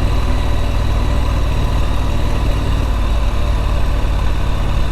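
Triumph Street Scrambler's 900cc parallel-twin engine running steadily at low revs, heard from on board the motorcycle.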